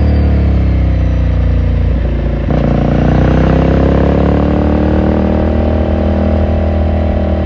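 Exhaust and engine of a Ducati Scrambler Sixty2's air-cooled 400 cc L-twin while riding. The engine note falls for the first two seconds as the bike slows, breaks off briefly about two and a half seconds in at a gear change, then climbs again as it accelerates and levels off.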